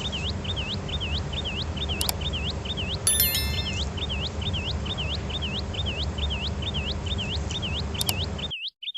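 A high chirp repeating evenly about two and a half times a second over a steady low hum, with a few short clicks about two and three seconds in and near the end.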